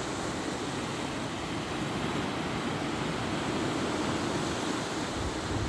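Sea waves washing onto the shore in a steady, unbroken rush of surf.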